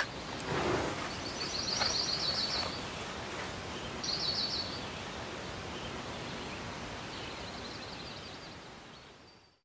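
Outdoor ambience: a small bird twittering in three short runs of quick, high chirps over a soft, steady hiss, fading out near the end.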